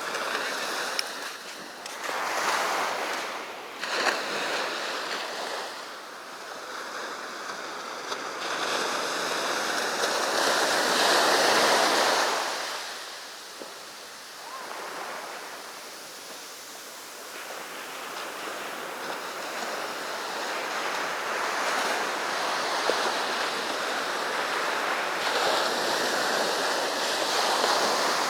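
Sea waves breaking and washing up the beach, a continuous surf that swells to its loudest about halfway through, falls away, then builds again toward the end.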